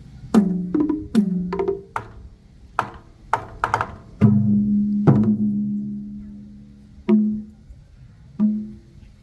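Pitched struck percussion in a live drum-troupe performance: about a dozen single strokes, each ringing and fading. They come quickly in the first four seconds; a loud stroke about four seconds in rings on for nearly two seconds, then two more strokes follow further apart.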